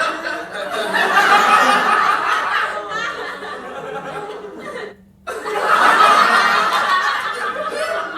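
People laughing and chuckling, with a sudden half-second break about five seconds in before the laughter starts again.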